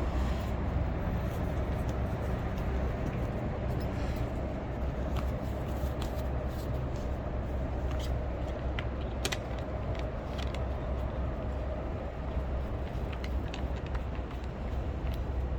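City street traffic: a steady rumble of passing road vehicles, with scattered faint ticks.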